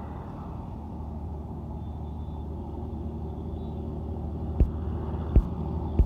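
Truck engine running steadily on the road, a low drone with road noise, and three sharp knocks about two-thirds of a second apart near the end.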